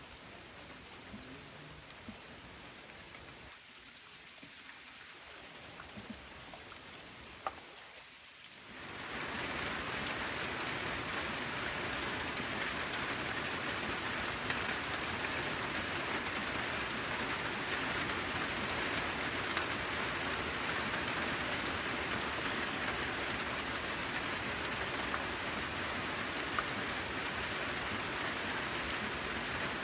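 Steady rain falling, light at first, then suddenly heavier and louder about nine seconds in.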